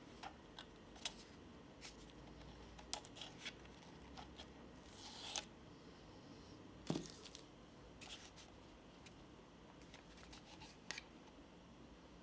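Faint handling sounds of small gear and packaging during an unboxing: scattered light clicks and taps, a short rustle about five seconds in, and a sharper knock about seven seconds in.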